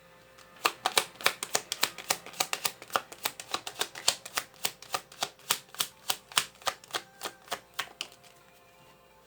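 Tarot deck being shuffled by hand: a quick, even series of sharp card clicks, about four a second, stopping a little before the end.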